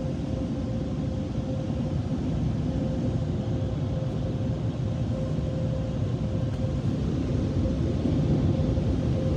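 Car wash air dryer blowers running, heard from inside the vehicle's cabin: a steady, loud rush of air with a constant whine, slowly getting louder near the end.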